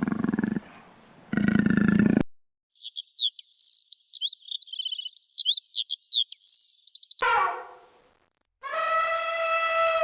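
A string of separate animal sound clips. A low roar-like call ends with a short burst after it, then a few seconds of high, quick chirping and trilling notes. A long drawn-out animal call with a clear pitch, falling at its end, closes it.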